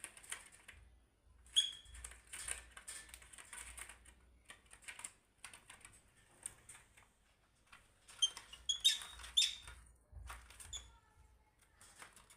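Pet birds tapping, clicking and scratching, with a few short high chirps about a second and a half in and again around eight to nine seconds in.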